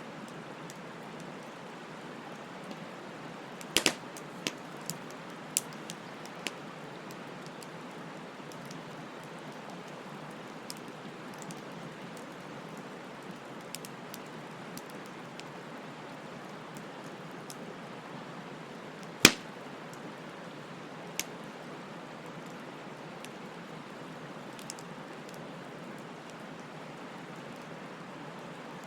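Wood fire burning with a steady soft rushing of the flames and scattered sharp crackles and pops, the loudest a cluster about four seconds in and a single pop a little past the midpoint.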